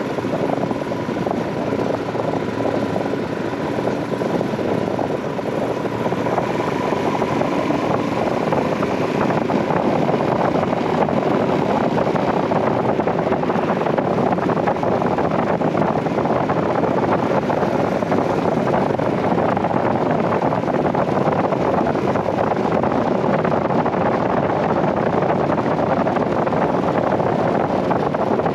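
Royal Enfield Himalayan 411's single-cylinder engine running under way, mixed with steady wind rush on the microphone. It grows a little louder about a third of the way in, then stays steady.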